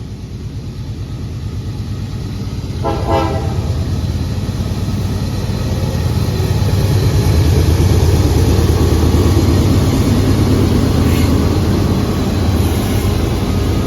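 Diesel freight locomotive approaching, its engine rumble growing louder until it passes, with one short horn toot about three seconds in.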